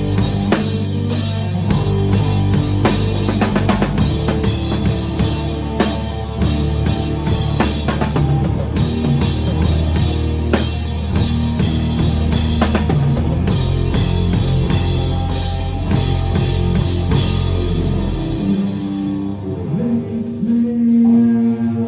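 Rock music played with a full drum kit and bass. Near the end the drums drop out, leaving guitar.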